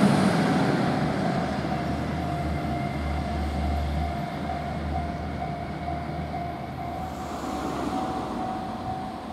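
East i-E track inspection train rumbling on the rails as it pulls away, fading steadily. About a second and a half in, a steady level crossing warning bell starts ringing and keeps on.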